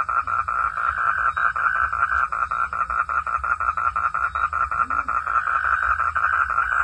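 Frogs calling in a steady, rapid pulsing chorus of about seven pulses a second that never lets up.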